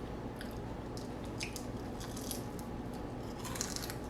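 Close-up biting and chewing of crispy deep-fried food, with scattered short crunches.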